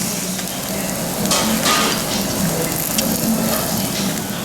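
Meat sizzling on a tabletop grill: a steady hiss with a few louder crackles.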